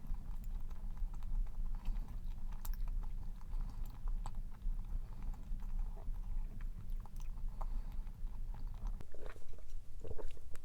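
Close-up chewing of a dense, fudgy cream-cheese cup cookie: soft mouth sounds and small clicks, a little louder near the end, over a steady low hum.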